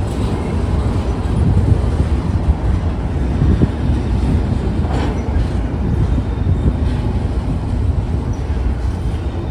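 A train rolling past: a loud, steady low rumble with a few faint clicks.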